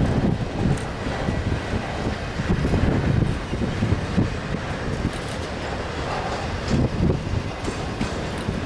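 Freight train cars rolling past, their wheels clattering and thumping irregularly over the rail joints over a continuous low rumble.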